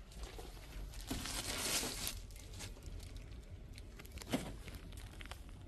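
Rustling and crinkling handling noise, loudest between about one and two seconds in, with a sharp knock a little past four seconds and a few lighter clicks, over a steady low rumble.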